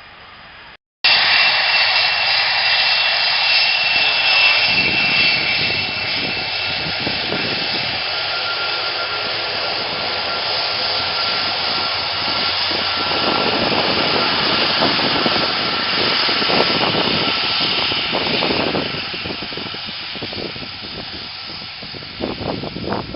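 Jet airliner engines passing close: loud, steady jet noise with a high whine over it, coming in abruptly about a second in and fading over the last few seconds.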